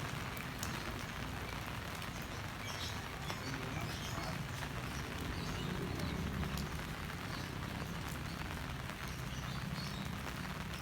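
Heavy rain falling steadily, with a low rumble of wind underneath and occasional faint short high chirps.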